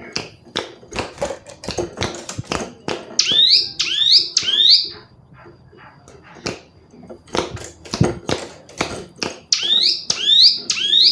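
Female ciblek gunung (a prinia) calling: a fast series of sharp, dry tick notes, broken by runs of three quick arched chirps about three seconds in and again near the end.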